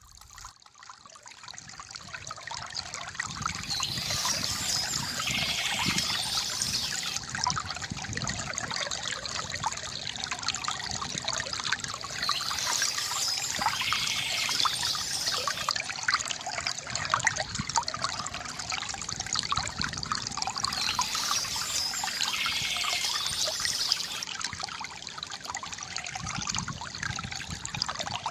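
Water trickling and splashing from a bamboo fountain. It fades up from near silence over the first few seconds, then runs steadily, with a high chirping sound coming back about every eight to nine seconds.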